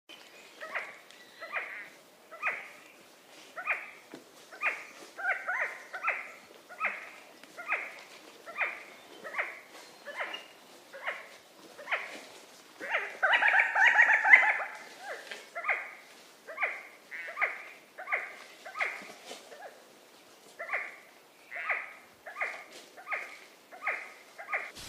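Resplendent quetzal calling: a steady series of short calls, a little faster than one a second, with a louder, denser run of calls near the middle.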